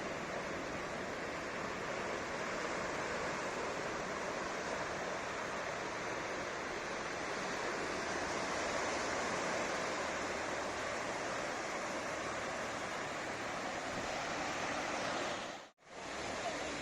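Ocean surf breaking and washing onto the shore, a steady rush that swells slightly midway. Near the end the sound cuts out abruptly for a split second, then the surf resumes.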